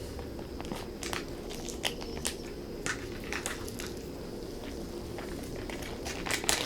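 Scattered small clicks and crackles of cooking and food handling over a steady low rumble.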